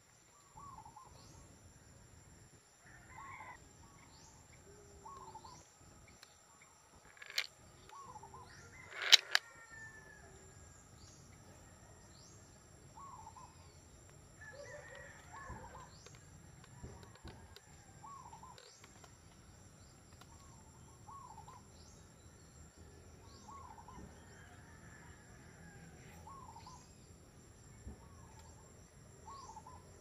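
Wild birds calling: a short call repeated every second or two over a faint steady high-pitched hum. Two sharp clicks cut in about seven and nine seconds in, the second the loudest sound.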